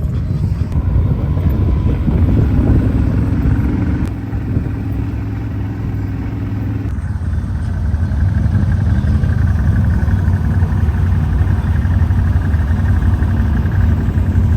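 Off-road vehicle engine running under way, a steady drone whose note and loudness change a few seconds in and again about halfway through.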